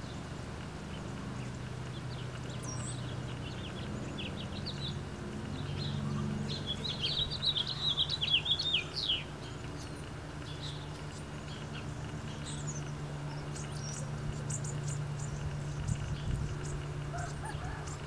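Wild birds chirping and calling, with a fast jumble of chirps, the loudest part, about halfway through and scattered short high calls near the end. A low steady hum runs underneath.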